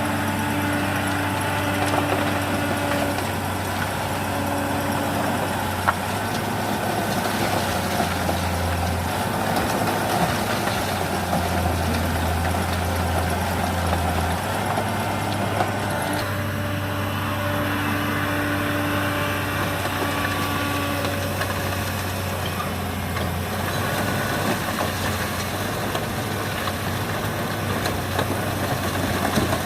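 Heavy diesel engines of an excavator and dump truck running at a steady working idle, their low hum shifting in pitch and strength as the machines work. A single sharp click about six seconds in.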